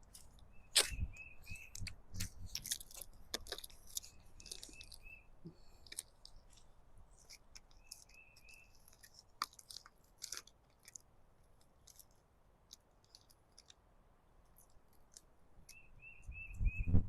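Light crackling and clicking of a stencil transfer sheet being handled and peeled, busier in the first half and thinning out. A bird calls four times, each call a quick run of four or five short high chirps on one pitch.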